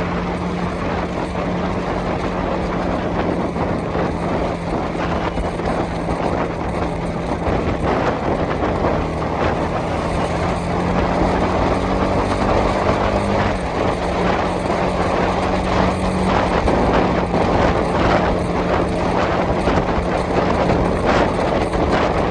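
Honda CB300R's single-cylinder engine running while riding, under a steady rush of wind and road noise. The engine note shifts about halfway through.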